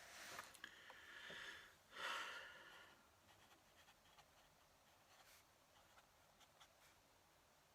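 Faint fountain pen nib scratching on paper: a few longer scratchy strokes in the first three seconds, the loudest about two seconds in, then only light scattered ticks of short strokes.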